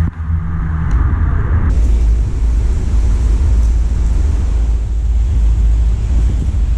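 Loud, steady low rumble of wind buffeting the camera microphone.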